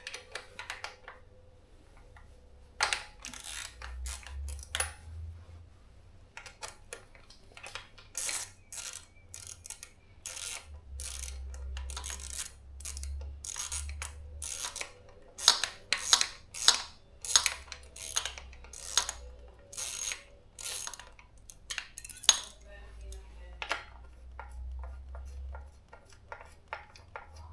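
Metal hand tools and parts being worked on a motorcycle: a long series of sharp metallic clicks and clinks, coming in irregular runs of several a second, loudest past the middle.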